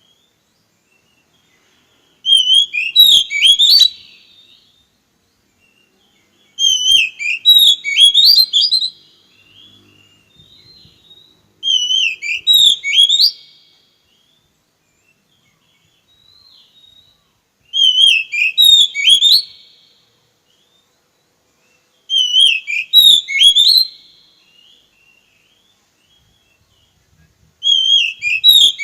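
A songbird singing the same short phrase of quick, sharp whistled notes six times, each about two seconds long, with pauses of a few seconds between.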